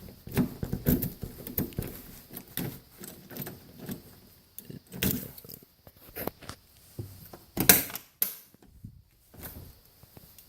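Keys jangling and a run of irregular clicks and knocks from handling, with one sharp clack a little before eight seconds in.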